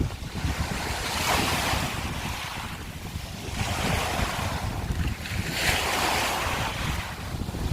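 Sea waves breaking and washing over a shore of broken scallop shells, the hiss of the surf swelling about every four seconds, with wind rumbling on the microphone underneath.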